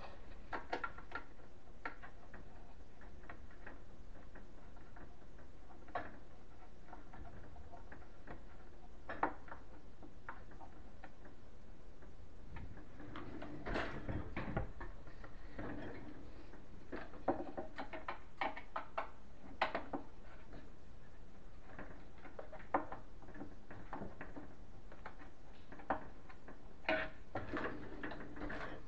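Scattered light clicks and knocks of hands working on kitchen cabinet hardware. They are sparse at first and come in busier clusters about halfway through and again near the end, over a steady low background.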